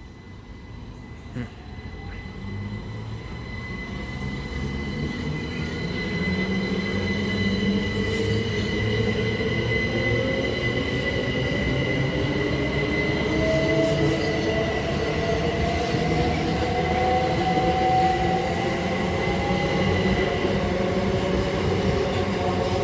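Electric multiple-unit train accelerating, its traction motors whining steadily upward in pitch, with a steady high-pitched wheel squeal over the rumble of the wheels. It grows louder over the first several seconds, then holds.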